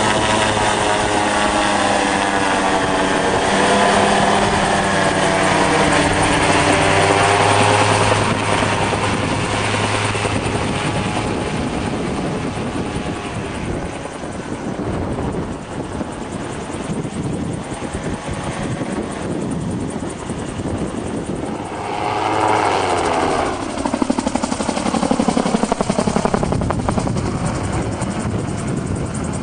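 MT-03 gyrocopter's engine and pusher propeller running, the pitch wavering up and down with power changes. The sound weakens in the middle and swells again about 22 seconds in, then slides down in pitch.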